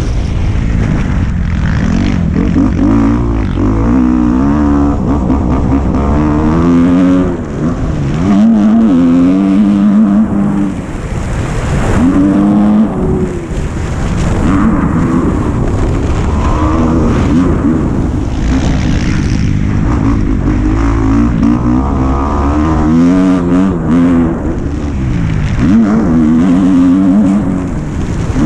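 Dirt bike engine running under throttle as it is ridden, its pitch rising and falling over and over every few seconds.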